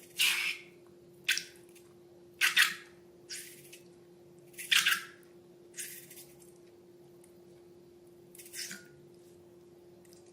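Slime being squeezed and worked by hand: about seven short, wet squelches at uneven intervals, with a faint steady hum underneath.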